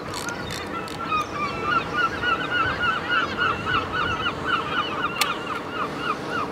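A bird calling in a long run of short, evenly repeated notes, about three to four a second, with a single sharp click about five seconds in.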